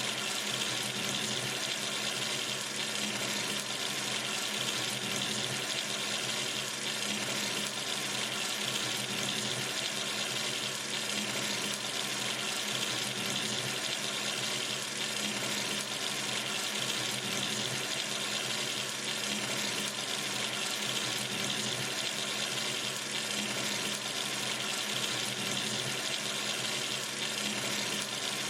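Kitchen or bathroom sink tap running steadily, water pouring from the faucet into the basin in an even, unchanging hiss.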